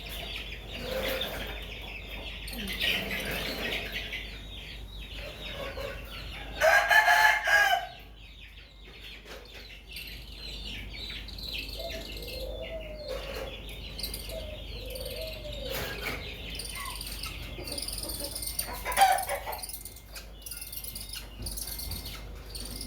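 A rooster crows once, loud, about seven seconds in, amid chickens clucking and small birds chirping.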